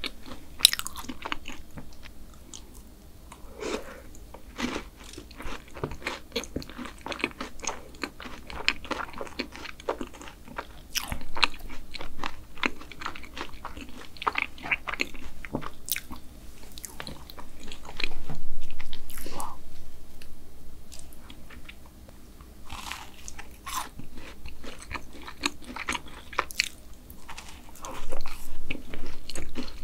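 Close-miked eating sounds: biting and chewing of a chocolate chip brownie topped with black sesame ice cream, a steady run of small clicks and crunches with louder bursts of bites now and then.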